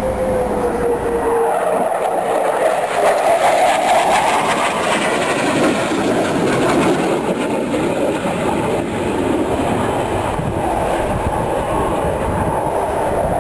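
Jet engine noise from Blue Angels F/A-18 Hornets flying past, steady and loud, with a tone that falls in pitch over the first two seconds as the jets go by.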